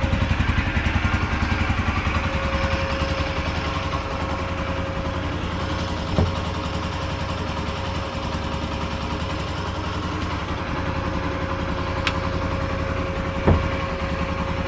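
Jianshe JS150-13 motorcycle's 150 cc single-cylinder engine idling with an even pulse, settling slightly lower after a few seconds, with two short clicks.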